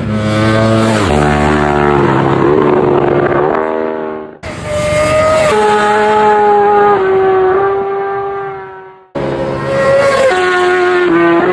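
Road-racing motorcycles at full throttle, passing close at high speed, in three short clips cut together. In each, the engine note climbs as the bike accelerates, then drops sharply as it goes by.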